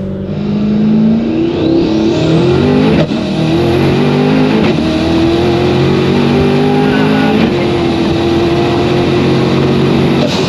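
Twin-turbocharged LT2 6.2-litre V8 of a C8 Corvette pulling hard, revs climbing with a brief break about three seconds in. A faint high turbo whine rises early on.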